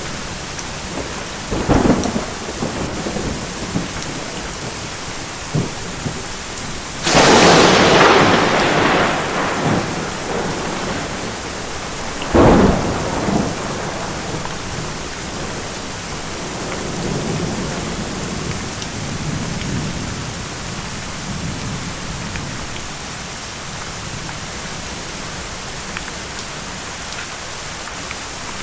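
Steady heavy rain with thunder: a small clap about two seconds in, a loud crash about seven seconds in that rolls on for a few seconds, a sharper clap at about twelve seconds, then low rumbling before it fades back to rain alone.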